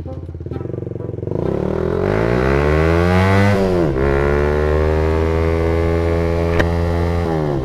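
Motorcycle engine accelerating through the gears: its pitch climbs, drops at an upshift about halfway through, then climbs again to another shift near the end. One sharp click sounds late on.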